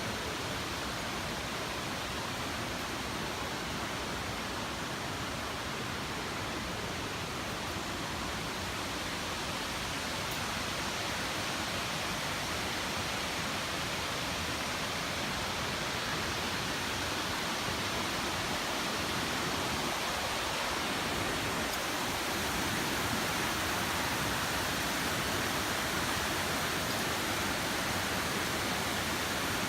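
Waterfall rushing with a steady roar of falling water, growing slightly louder in the second half.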